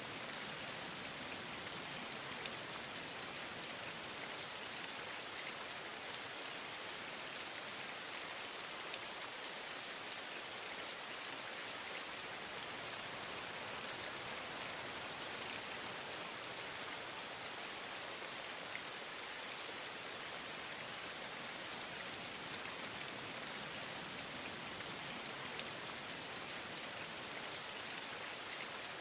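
Steady rain falling: a dense, even hiss with scattered light drop ticks.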